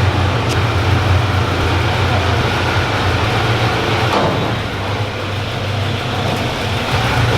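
An engine running steadily with a strong low hum and no revving, dipping briefly a little past the middle.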